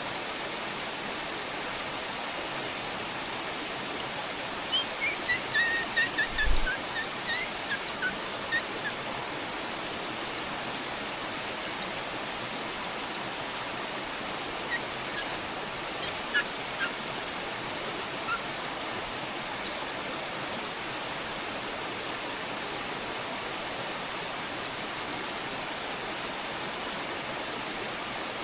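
Nestlings calling: a rapid burst of short, high chirps about five seconds in, with a low thump among them, then a few scattered chirps later. A steady hiss, like running water or rain, lies underneath.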